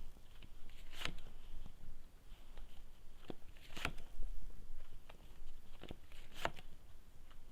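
Tarot cards being handled and shuffled, with three sharp snaps about one, four and six and a half seconds in and fainter ticks between.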